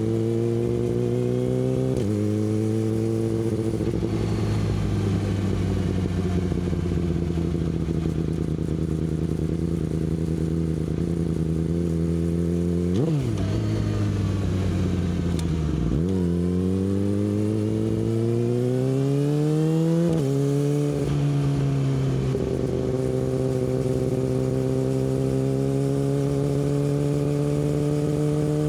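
Yamaha R6's inline-four engine through an Akrapovic exhaust, ridden on the road: the note climbs slowly, then goes through several quick rises and drops in pitch, gear changes and throttle changes, around the middle, before settling into a steady cruise.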